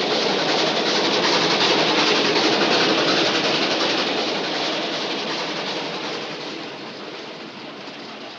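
Train running along the rails, a steady dense clatter that is loudest in the first few seconds and fades gradually toward the end.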